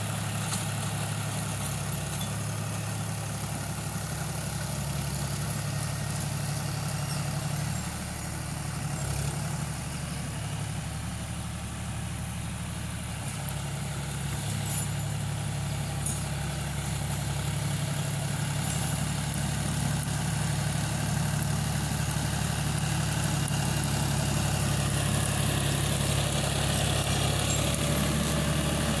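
Tractor engine running steadily, its low note shifting slightly now and then.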